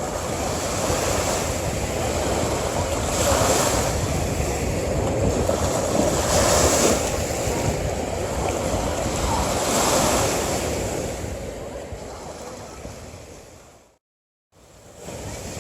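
Ocean waves breaking and washing onto a beach, the surf swelling and easing about three times. Near the end it fades out to a brief silence of about half a second, then comes back.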